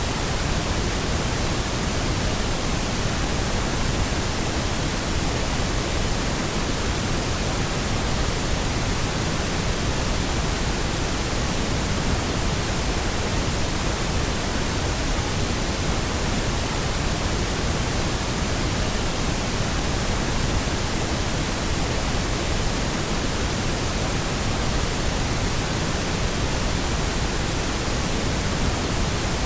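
Steady pink noise: an even, unchanging hiss across all pitches, electronically generated.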